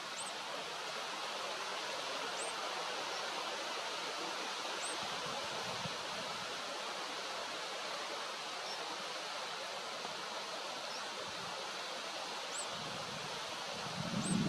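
Steady outdoor background hiss with a short, high chirp every couple of seconds.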